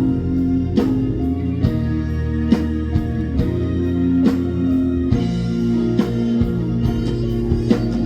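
Instrumental passage of a ballad played by a band: guitar and held notes over a steady drum beat of roughly one stroke a second.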